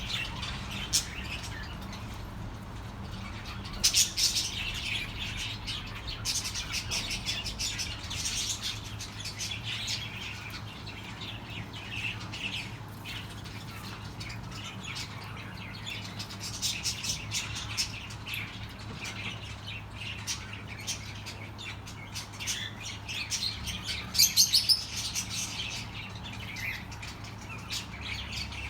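A flock of budgerigars chattering: many quick overlapping chirps and warbles that swell and thin out in waves, with a low steady hum underneath.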